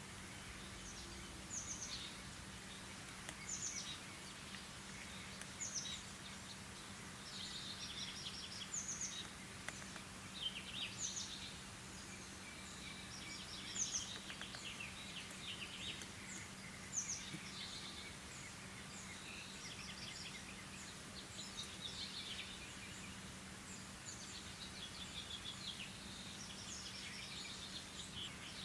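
Garden birds singing and chirping, one short high call repeating about every two seconds among other trills and chirps, over a steady low hum.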